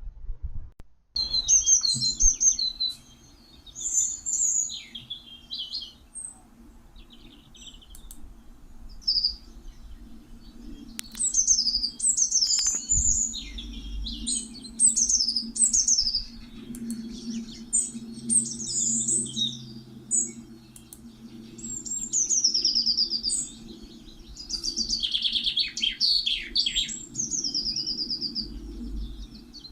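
Starlings chirping and whistling, a busy jumble of sliding whistles, chirps and rattling clicks, with a steady low hum underneath.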